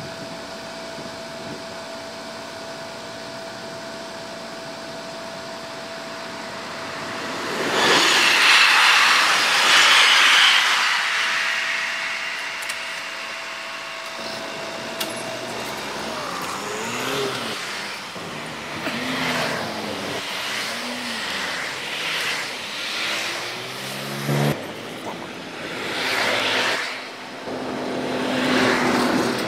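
A train rushing past over the level crossing, loudest about eight to eleven seconds in and then fading, after a steady tone at the start. Then, with the barriers up, a line of cars pulls away over the crossing, their engines rising and falling in pitch as they accelerate and pass close by.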